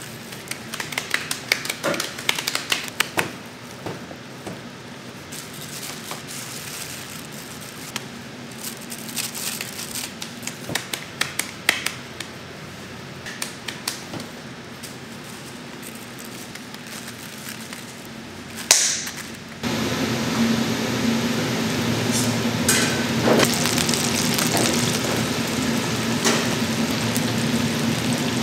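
Scattered light clicks and knocks of kitchen work, with a short hiss near twenty seconds in. Then an abrupt switch to a steady sizzle of food frying, with a low hum under it.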